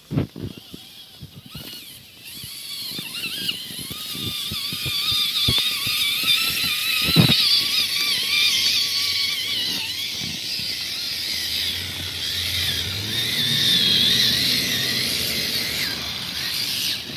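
Radio-controlled scale crawler truck's electric motor and gearbox whining, the pitch wavering as the throttle is worked over rough ground. A few sharp clicks come at the start, and the whine builds in from about two seconds in.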